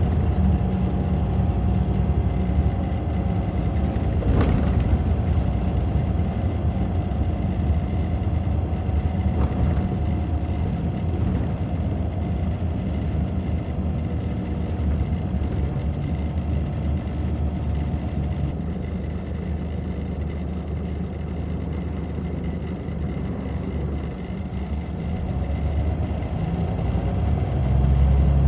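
Scania K94 bus's DC9 five-cylinder diesel engine running steadily, with a short sharp knock about four seconds in. The engine eases off a little past the twenty-second mark, then builds again near the end.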